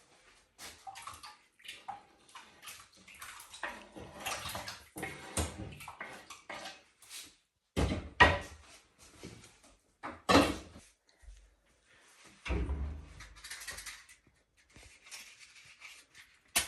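Irregular clatter of kitchen work: knocks and clinks of pots and dishes being handled, with a few heavier thumps.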